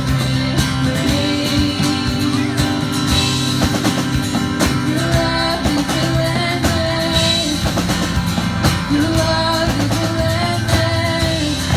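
Live worship band playing with electric guitar and drums, with singing.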